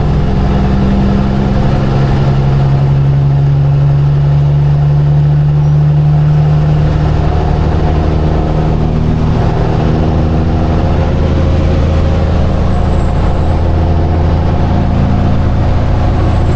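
Heavy diesel engine of a Peterbilt semi truck running steadily under way, heard from inside the cab over road noise. Its engine note changes and settles lower about eight to nine seconds in.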